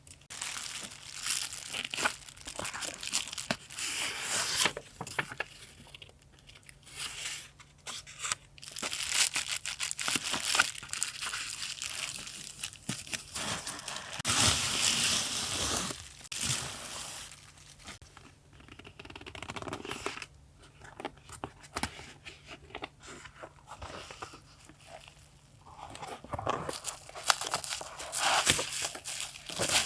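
Paper and packaging handled close to the microphone: crinkling, rustling and tearing in irregular bursts, loudest around the middle.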